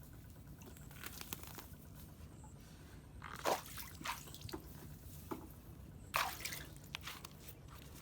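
Wet debris being worked in water: splashing, dripping and wet crunching, with two sharp splashes about three and a half and six seconds in and smaller ones between.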